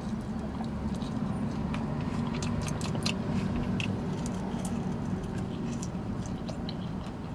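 A person biting into and chewing a sauced chicken wing close to the microphone, with many small wet mouth clicks, densest in the middle. Underneath is a steady low hum in the car cabin.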